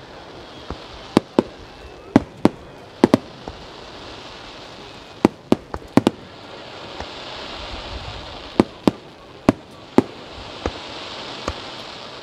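Starmine firework barrage: about sixteen sharp shell bursts going off at uneven intervals, often in quick pairs, over a steady hiss that swells around the middle and again near the end.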